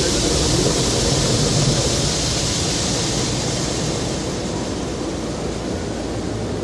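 Car wash spraying water over the car, heard from inside the cabin: a steady rushing hiss over a low rumble, the hiss easing after about three seconds.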